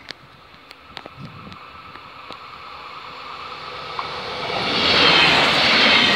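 Passenger multiple unit approaching and passing close by: a rising rush of wheels on rail that grows loud from about four seconds in.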